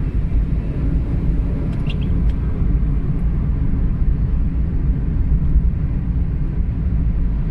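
Car driving, heard from inside the cabin: a steady low rumble of engine and road noise, with a few light clicks about two seconds in.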